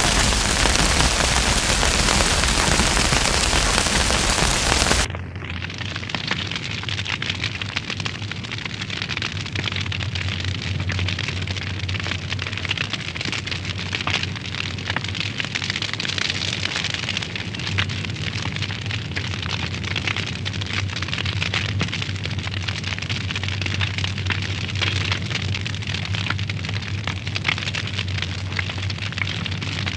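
Wood fire burning in a fireplace, crackling with many small pops over a steady low hum. It opens with a louder, even hiss that cuts off abruptly about five seconds in.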